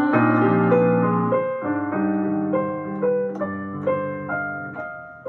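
Solo piano playing a short interlude of chords and melody notes, the notes fading away near the end.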